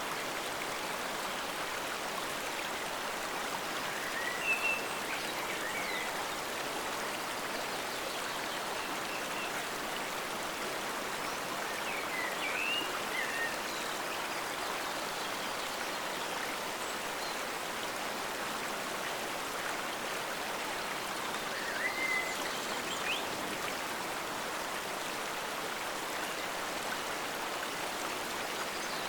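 Steady rush of a forest stream flowing, with a few short high chirps now and then.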